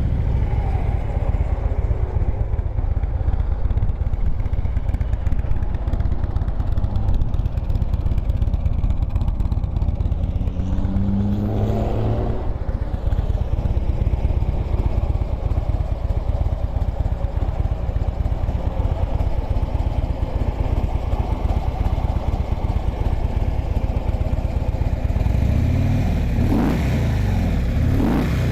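Harley-Davidson Street Glide's 103-inch fuel-injected Twin Cam V-twin engine idling just after start-up, revved briefly about twelve seconds in and a few more times near the end.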